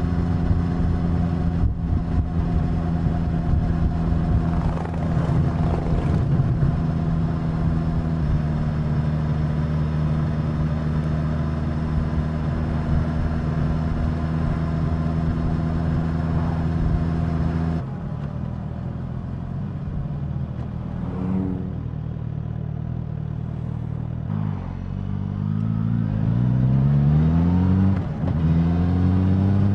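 Suzuki GSX-S1000's inline-four engine and exhaust under way, holding steady revs, then dropping off as the throttle closes about eighteen seconds in. Near the end it revs up twice, with a gear change between.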